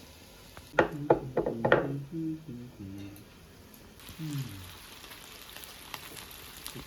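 Food sizzling and crackling on a barbecue grill, with a quick run of sharp clacks about a second in.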